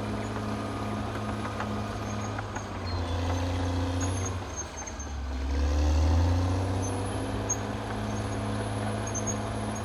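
Caterpillar D6R XL bulldozer's diesel engine running under load, a steady hum that builds about three seconds in, dips briefly near the middle, then swells to its loudest about six seconds in before settling back to a steady run.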